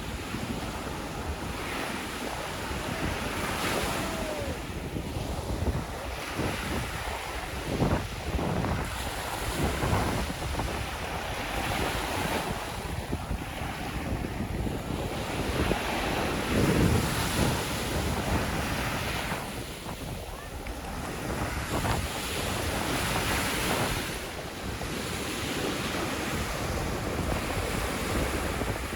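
Sea waves breaking and washing up the shore, swelling and easing every several seconds, with wind rumbling on the microphone.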